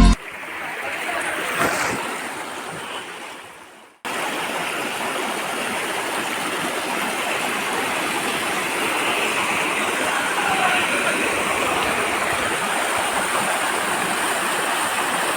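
Waterfall water rushing as a steady, even noise. About four seconds in it fades away and cuts straight back in at a slightly louder level.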